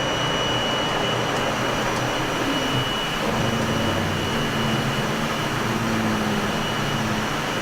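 Steady roar of engine and airflow noise in a Boeing 737-300's flight deck during the initial climb at takeoff thrust, with a thin steady high tone throughout. A low hum joins about three seconds in.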